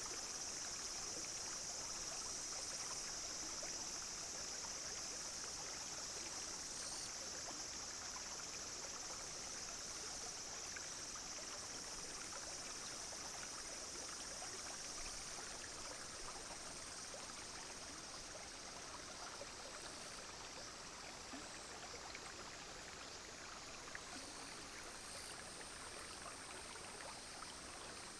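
A small clear stream flowing and trickling, with a steady high-pitched drone of cicadas and other insects over it. A higher insect buzz starts and stops several times.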